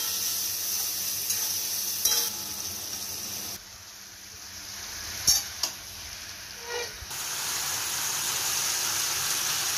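Oil sizzling in a steel kadai as an onion-tomato masala and then pieces of chicken fry. The sizzle turns quieter for a few seconds in the middle, with a couple of short sharp clicks, and comes back louder near the end.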